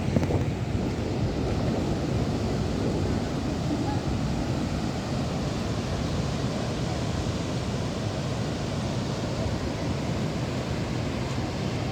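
Floodwater of the swollen Sabarmati river rushing steadily, an even noise heaviest in the low range, with wind buffeting the microphone.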